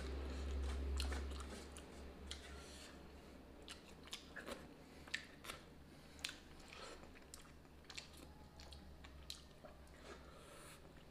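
Close-up chewing of a man eating rice and fish with his hands, heard as scattered short clicks and crunches. A low rumble fades out in the first second and a half.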